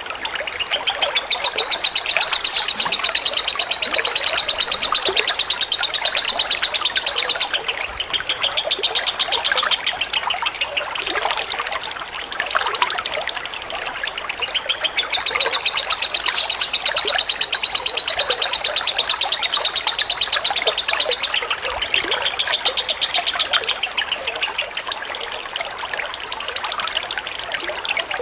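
Lovebird singing a long, very fast high-pitched chattering trill (the 'ngekek' call), in long runs broken by a few short pauses, over steadily trickling water.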